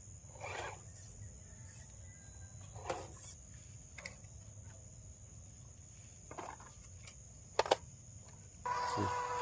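Steady high insect chirring, with a few short faint sounds and two sharp clicks a little before the end. Close to the end, a louder steady buzzing whine starts abruptly.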